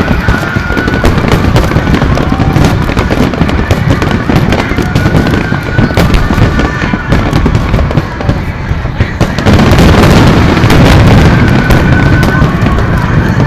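Fireworks finale barrage: aerial shells bursting in rapid, overlapping succession, booms and crackles running together without a break. A denser, louder stretch comes about ten seconds in.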